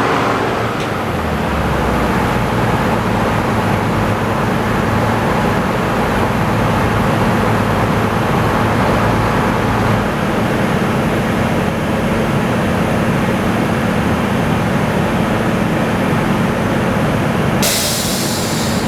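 Sawmill running under tractor power: a loud, steady mechanical din of engine, saw and sawdust blower with a constant hum. A lower hum drops out about halfway, and a hiss comes in near the end.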